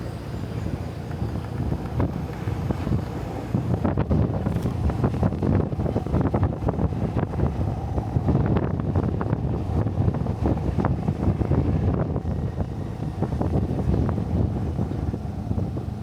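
Wind rumbling and buffeting hard on the microphone while riding a motorbike, with a vehicle's running sound underneath; the buffeting grows stronger about four seconds in.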